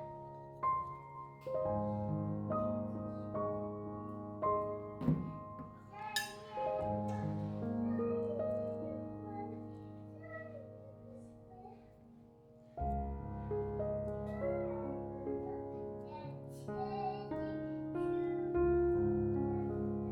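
Soft background piano music, slow notes struck about once a second, with a few short knocks from household activity.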